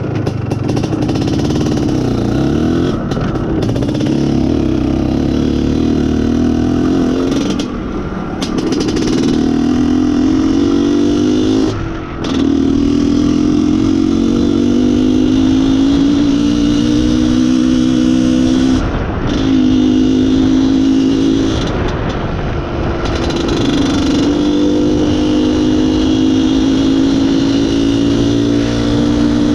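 IZh Planeta Sport motorcycle's single-cylinder two-stroke engine under way, its pitch climbing as it accelerates, with four short dips where it shifts gear.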